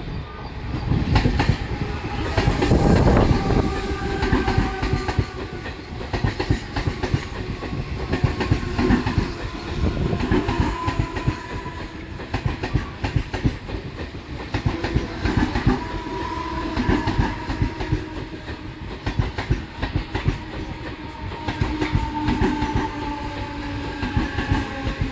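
Mumbai suburban local electric train passing close alongside a platform, its wheels clattering rapidly and continuously over the rail joints, loudest a second or two in.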